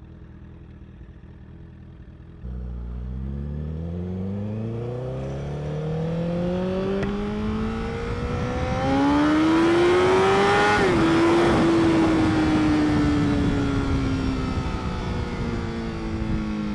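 Honda CBR1000RR's inline-four engine ticking over, then pulling away about two and a half seconds in. The revs climb steadily for about eight seconds while wind noise builds, then fall slowly as the bike eases off.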